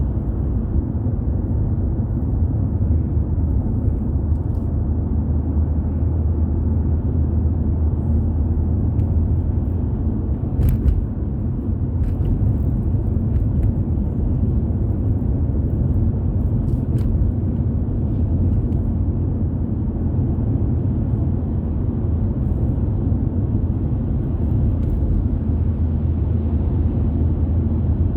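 Car driving at a steady pace: a continuous low rumble of tyres and engine, with a few faint clicks about eleven, twelve and seventeen seconds in.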